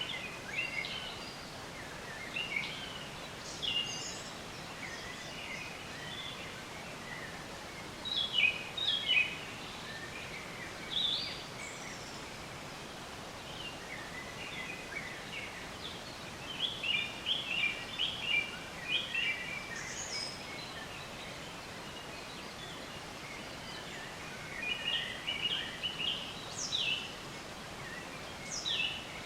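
Several songbirds chirping and trilling in short scattered phrases, busiest about a third of the way in, past the middle and near the end, over a steady background hiss.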